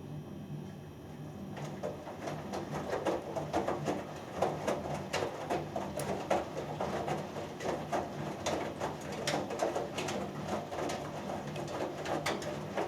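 Hoover Dynamic Next DXA610IW3 washing machine in its main wash: after a pause with only a low hum, the drum starts turning about a second and a half in, with water sloshing and the load tumbling with many small clicks.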